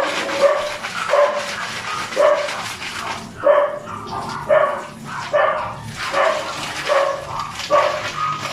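A dog barking over and over, one short bark about every second, about nine in all.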